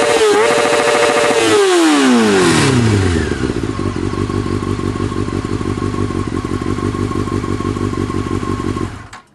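Honda CBR600F4i inline-four engine through an aftermarket ART Pro Series II exhaust, revved high with quick throttle blips, then falling back to a steady idle about three seconds in. The sound cuts off near the end.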